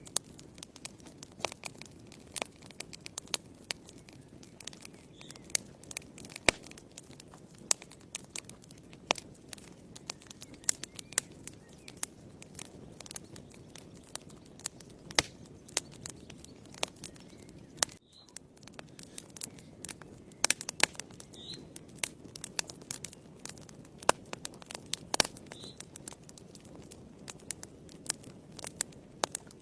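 Wood fire burning in a fireplace, crackling with frequent irregular sharp pops and snaps over a low steady rush of flame. The sound dips briefly about eighteen seconds in.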